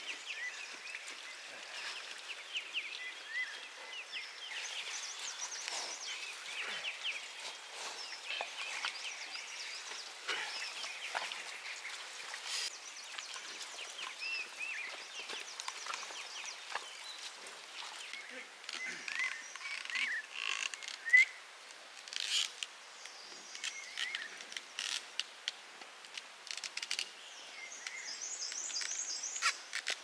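Wild birds chirping and calling, short twittering calls and trills again and again, with scattered sharp clicks and knocks; one knock about two-thirds of the way through is the loudest sound.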